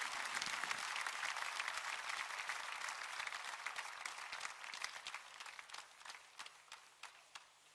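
A congregation applauding. The dense clapping thins and dies away through the second half, leaving a few scattered last claps near the end.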